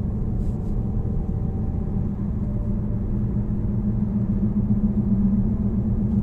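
Steady low drone of a car's engine and road noise, heard from inside the moving car's cabin.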